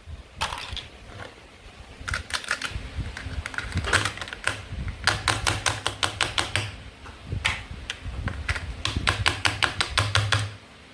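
Runs of rapid, sharp clicks, several a second, with low knocks beneath: plastic toy food being handled and cut on a board.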